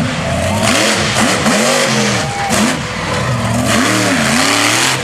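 Monster truck engine revving hard, its pitch rising and falling again and again in quick throttle blips, over a loud steady hiss of noise.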